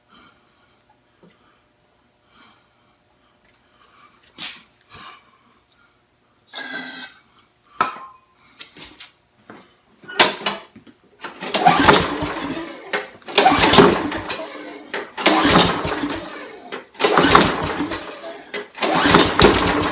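Briggs & Stratton lawn mower engine being pull-started: after some quiet handling clicks, about five hard recoil pulls in a row in the second half, each cranking the engine, which tries to fire but does not catch. The owner takes the failed start for a fuel delivery problem rather than an ignition fault.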